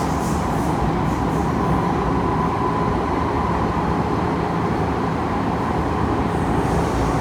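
Kawasaki C151 metro train running through an underground tunnel, heard from inside the car: a steady rumble of wheels on rail with a faint, steady whine. A light, rhythmic ticking from the wheels is heard in the first second or so and again near the end.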